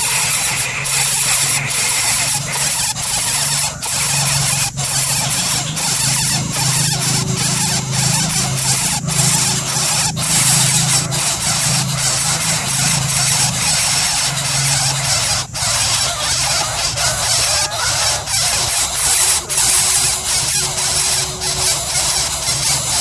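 Coucal chicks making continuous harsh squealing and hissing begging calls, mixed with frequent short clicks.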